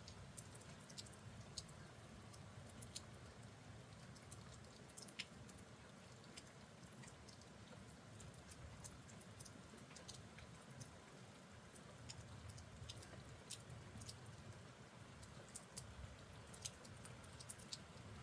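Near silence: a faint low background hum with sparse, irregular ticks of light raindrops. No thunder is heard.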